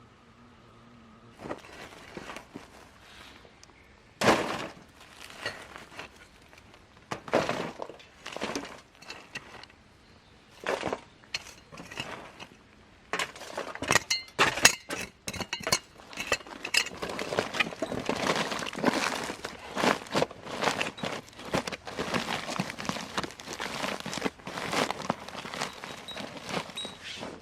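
Irregular clatter of short knocks, clicks and cracks, sparse at first and much denser from about halfway on.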